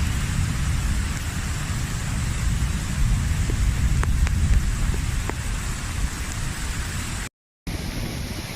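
Floodwater rushing and splashing as it pours into a desert sinkhole, with wind buffeting the microphone. The sound cuts out for a moment near the end.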